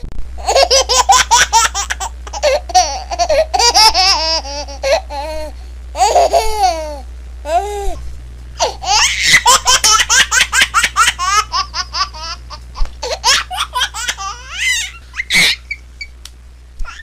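A baby laughing hard, high-pitched giggles coming in rapid runs of short bursts with brief pauses between them.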